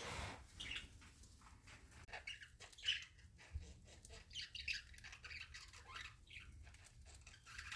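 Pet budgie giving faint, scattered chirps and squawks, with small clicks between them.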